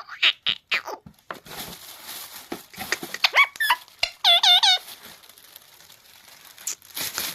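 Pet parrot chirping and squeaking in short, sharp calls, with a quick run of about four repeated dipping whistle notes near the middle.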